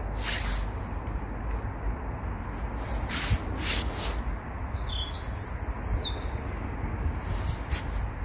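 A small bird chirping in a short run of quick calls about five seconds in, over a steady low background rumble.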